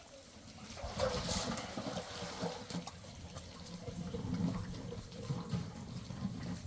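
Water running and splashing, starting about a second in, with a brief louder rush just after that.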